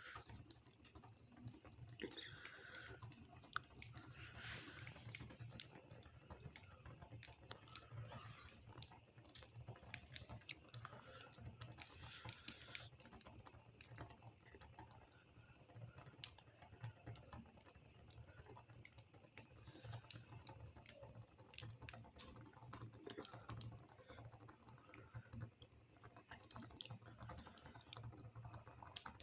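Parrots nibbling and cracking walnuts: a steady run of small, quick clicks and crunches from beaks on shell and nut, over a low steady hum.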